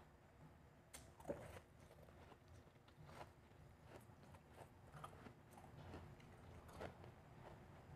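Refrozen powdery blended ice being bitten and chewed close to the microphone: quiet, separate crunches every second or two, the sharpest about a second in.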